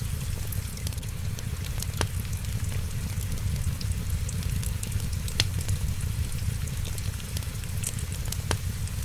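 Wood fire crackling: a constant patter of small crackles over a steady low rumble, with three sharper pops about two, five and a half and eight and a half seconds in.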